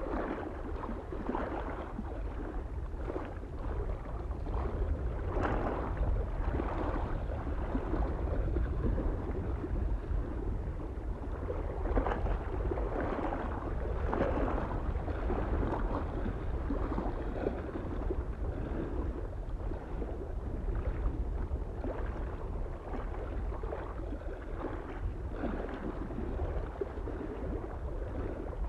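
Small waves lapping and splashing irregularly against a lake shore, with a steady low rumble of wind on the microphone underneath.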